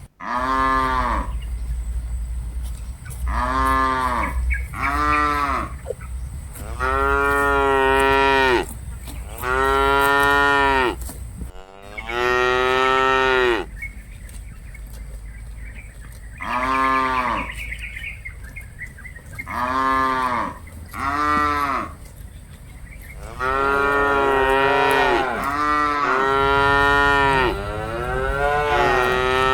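Cattle mooing, about a dozen calls one after another, each lasting about a second. In the last few seconds several cows call at once and their moos overlap.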